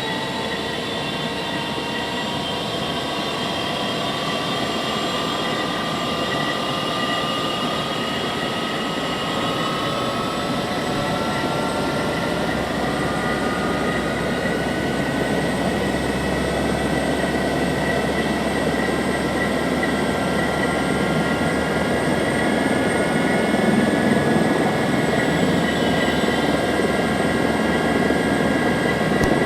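Helicopter engine and rotor running up on the ground before take-off. Several whining tones rise slowly in pitch over the first ten seconds or so, and the overall level builds gradually.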